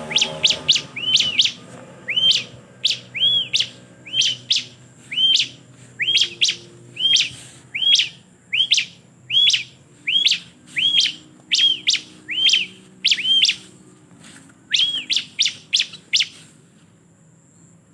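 A ciblek (bar-winged prinia) calling: a long series of sharp, arched chirps, one to two a second, that stops about a second and a half before the end.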